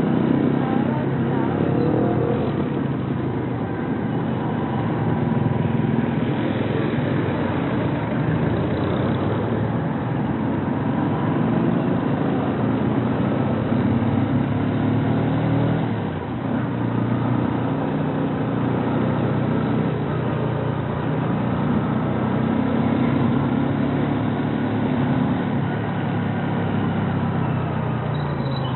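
Kawasaki Rouser NS125 FI's single-cylinder engine running under way, its pitch rising and falling gently with the throttle. It eases off briefly about sixteen seconds in.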